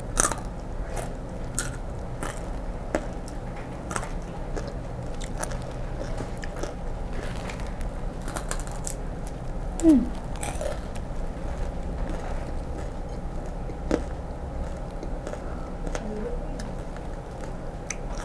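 A person chewing and biting crispy fried grasshoppers close to the microphone, with many small, sharp crunches.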